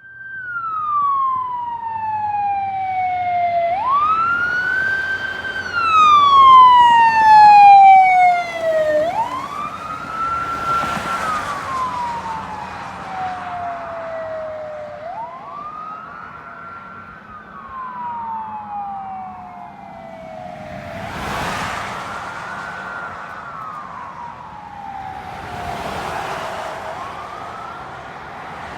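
Emergency vehicle sirens wailing as a fire engine and police cars go by: a slow wail falling and rising about every five to six seconds, at times two sirens overlapping, loudest about six to eight seconds in. A few short rushes of vehicle noise pass through near the middle and end.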